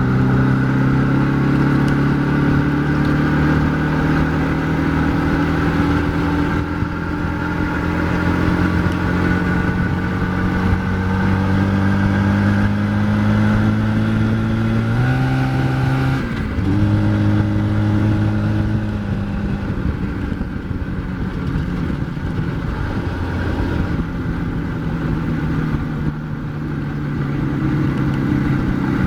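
IZh Jupiter 4 motorcycle's two-stroke twin-cylinder engine running under way. Its pitch climbs slowly as it gathers speed, rises and falls sharply about halfway through, then holds steady.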